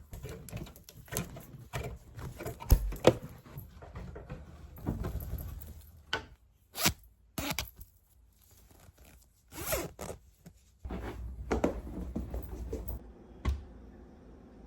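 A series of short rasping, scraping strokes of varying length, several of them quick and sharp, broken by brief quiet gaps.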